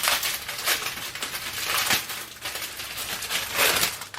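Small plastic bags of diamond-painting drills crinkling and rustling as they are handled, in a few louder bursts.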